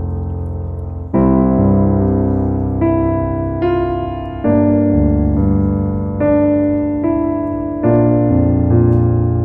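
Background music: slow, sustained piano chords, a new chord struck about every second.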